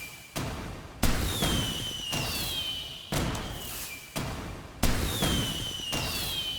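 Fireworks going off: about five sudden booms, each trailing off in a rumble, with high whistles falling in pitch over them.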